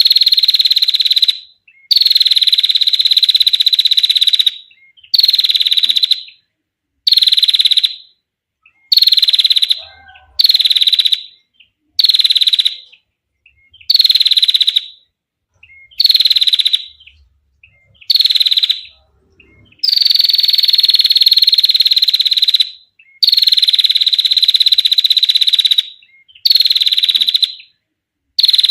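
Female prenjak (prinia) giving long, rapid buzzing trills over and over, about fourteen of them, each lasting one to three seconds with short pauses between. Each trill starts a little higher and settles at a steady high pitch.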